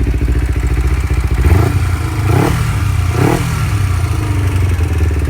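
A 2009 Kawasaki Ninja 250R's 249cc two-cylinder engine, through a Yoshimura carbon-fibre aftermarket exhaust, running at idle and then blipped twice, about a second apart. Each time the pitch rises and drops back to idle.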